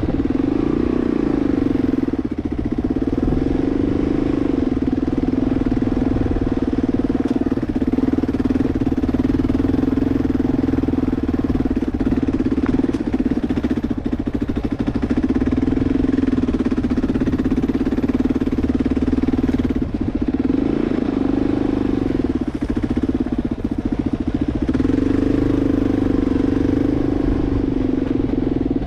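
2004 Kawasaki KLR 650's single-cylinder engine running steadily while riding, its pitch rising and falling several times with the throttle.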